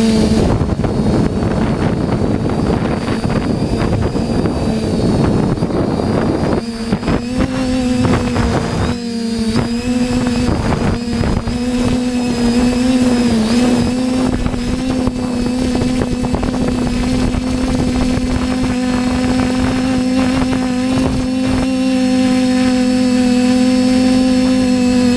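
TBS Discovery quadcopter's electric motors and propellers droning at a steady pitch in flight, with a slight waver in pitch around the middle. Wind buffets the microphone hard in the first several seconds, then eases.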